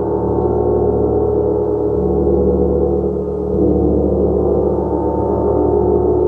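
A gong played continuously as a sound bath: a loud, sustained wash of many overlapping tones, mostly low to mid pitch. The low hum shifts about two seconds in and again about three and a half seconds in as fresh strokes land.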